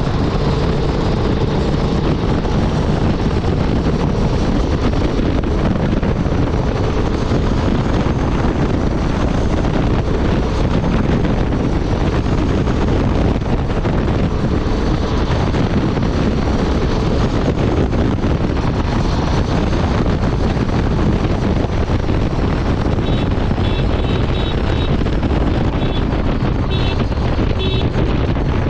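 Honda Transalp 750's parallel-twin engine running steadily at highway speed, nearly buried under heavy wind rush on the microphone.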